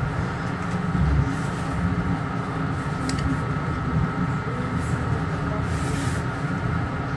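Metro-North commuter train running along the track: a steady low rumble, with a heavier bump about a second in and a few faint clicks.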